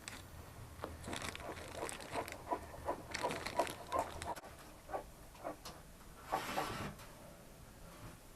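Irregular small clicks and taps with rustling as frozen pelmeni, thawed and stuck together, are pulled apart and dropped into a pot of boiling water, with a longer rustle about six and a half seconds in.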